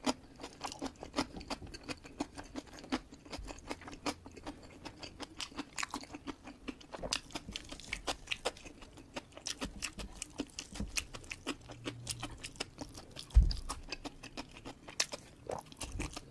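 Close-miked chewing of rice and fried chicken, a steady run of wet mouth clicks and soft crunching. A single dull thump comes about three-quarters of the way through.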